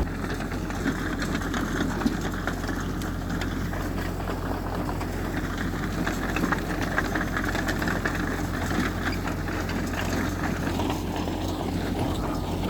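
Diesel engine of heavy earthmoving machinery running steadily, with scattered light clicks and clanks over the drone.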